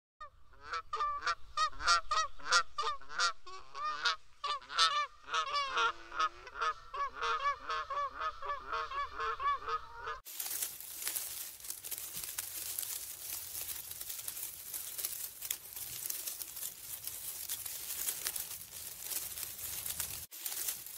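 Several birds honking in quick, overlapping calls for about ten seconds. Then it cuts abruptly to a steady rushing noise.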